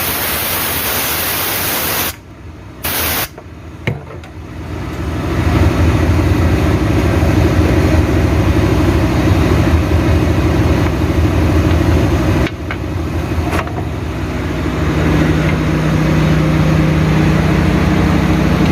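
A loud hiss for about the first two seconds, then broken sound. After that a steady, loud engine-like drone with a constant low hum runs on, the hum growing stronger near the end.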